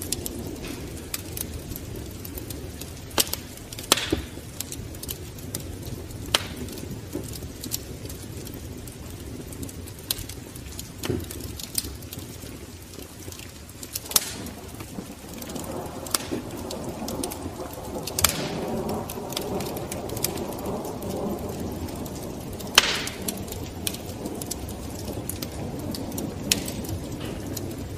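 Wood fire burning in a fireplace: steady low hiss of the flames with irregular sharp crackles and pops from the burning logs. A denser, fuller sound swells for several seconds in the middle.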